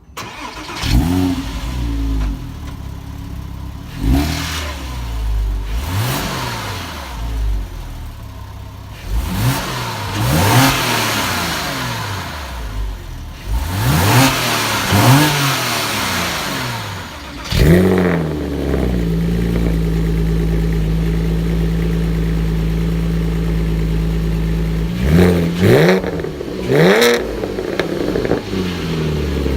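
Porsche engine through a Top Speed Pro1 full titanium aftermarket exhaust, starting up and revved repeatedly in sharp rises and falls. It then settles into a steady idle, with a few quick throttle blips near the end.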